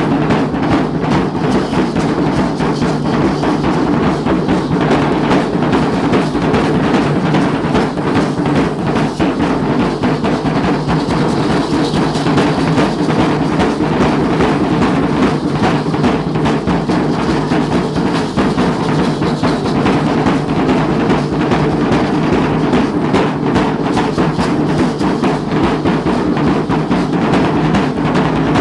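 Danza drums beating without a break in a fast, dense, steady rhythm, the drum accompaniment of a Guadalupana dance.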